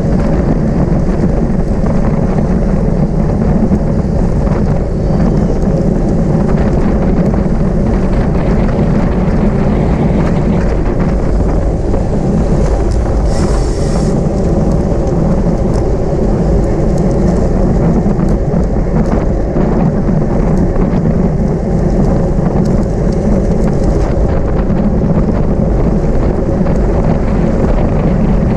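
Wind buffeting an action-camera microphone on a bicycle riding at race speed: a loud, steady low rumble, with a brief hiss about halfway through.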